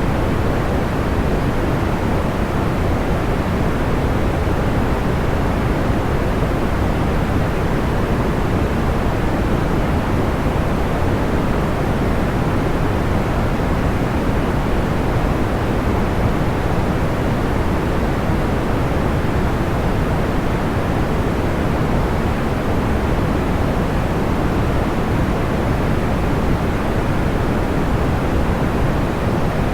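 Steady, unchanging noise, like a soft rushing hiss, heaviest in the low end and dull in the highs. There are no distinct crackles or pops.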